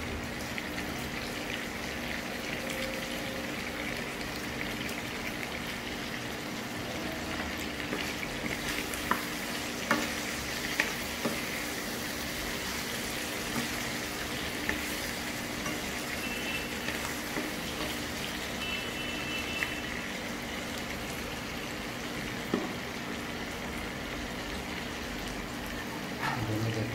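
Chicken pieces sizzling steadily as they fry in a nonstick wok, with a few sharp clicks of a spatula against the pan as they are stirred.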